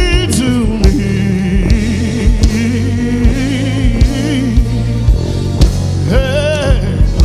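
Live gospel praise-and-worship music: a band plays under a steady beat while singers hold long, wavering notes, with a new sung phrase rising near the end.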